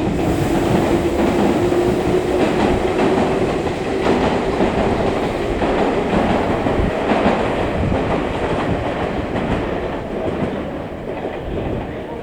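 JR West Shirasagi limited express electric train passing through a station without stopping: a steady rumble with wheels clicking over rail joints and a whine that rises slightly in pitch over the first few seconds. The sound eases a little near the end.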